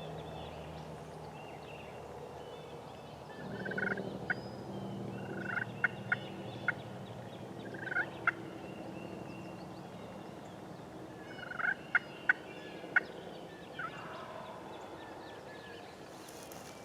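Wild turkey gobblers gobbling several times in loud, short bouts, each ending in a sharp note.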